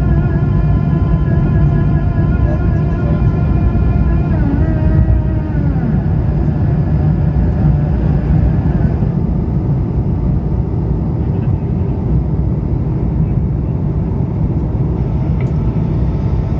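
Airbus A220-300 engines, Pratt & Whitney PW1500G geared turbofans, heard inside the cabin: a heavy low rumble with a cluster of steady whining tones above it. The tones bend downward about four to five seconds in and fade out about nine seconds in, leaving the rumble.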